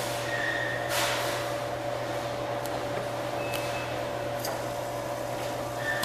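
Arcade claw machine running: a steady electrical hum with short electronic beeps near the start and again near the end, and a sharp click about a second in.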